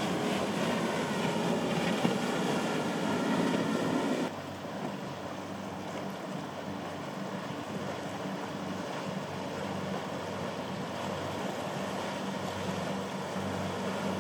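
Motorboat engines running through the inlet over wind and surf noise. About four seconds in, the louder wash drops off abruptly, leaving a quieter, steady low engine drone.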